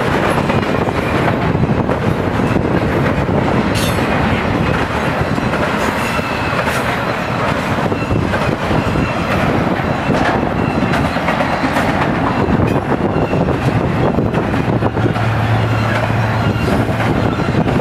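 Freight train of double-stacked intermodal well cars rolling past at speed: a steady rush of wheels on rail, with scattered clacks as the wheels cross rail joints and a faint intermittent wheel squeal.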